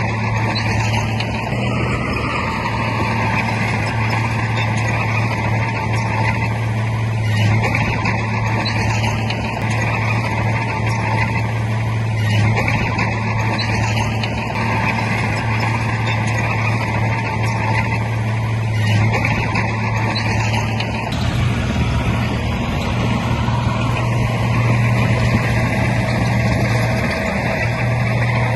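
Heavy earthmoving diesel engine running steadily with a strong low hum. The engine note dips for a couple of seconds about two-thirds of the way in, then picks back up.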